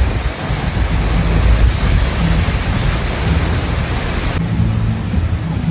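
Cyclone wind and heavy rain, a wide steady hiss over a heavy low rumble of wind buffeting the microphone. The high hiss drops away abruptly about four and a half seconds in.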